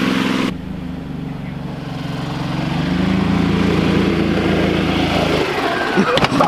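A small engine running under throttle. Its pitch climbs and then holds before it cuts out about five and a half seconds in, followed by a few sharp knocks.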